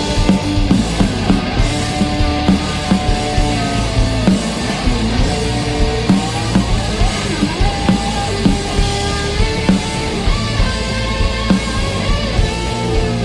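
A rock band playing live: electric guitars, bass and a drum kit, with sustained melodic guitar notes over a steady drum beat.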